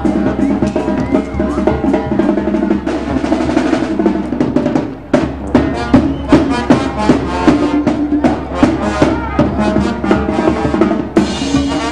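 Mexican banda de viento playing live: brass carrying the tune over bass drum and snare. The music dips briefly about five seconds in, then comes back with a run of strong drum hits.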